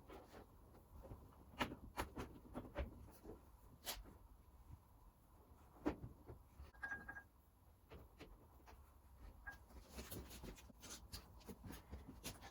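Faint, scattered clicks and light knocks, irregular and a second or so apart, with a brief thin high tone about seven seconds in.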